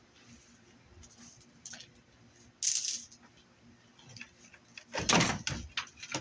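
Scrap metal parts being handled on a workbench: a short scrape a little under three seconds in, then a run of clattering and knocking near the end.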